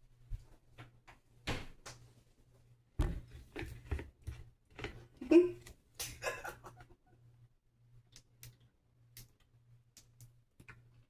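Irregular knocks and clattering bumps in a small room, most of them bunched in the middle with the loudest about five seconds in, over a faint on-and-off low hum.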